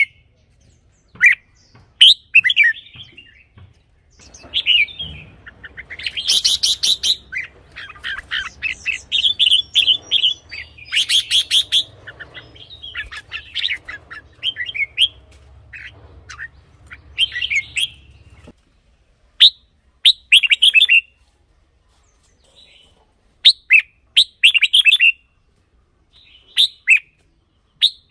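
Red-whiskered bulbul singing short, bubbling whistled phrases again and again with brief pauses; the song is busiest in the first two-thirds and more spaced out near the end. A faint low hum underneath cuts out about two-thirds of the way through.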